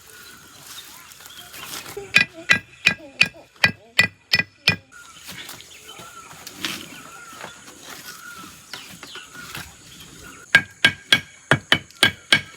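A metal tool striking brick on the building site, with sharp, ringing blows. They come in two quick runs of about eight or nine blows each, roughly four a second: one starting about two seconds in, the other near the end.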